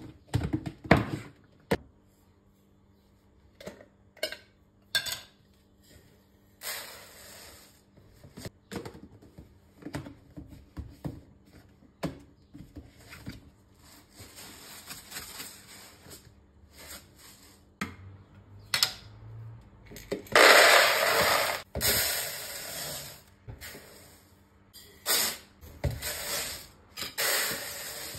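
Food storage containers being handled while a pantry cabinet is organized: scattered clicks and knocks of containers and lids being set down, with stretches of rustling, the longest and loudest about two-thirds of the way through.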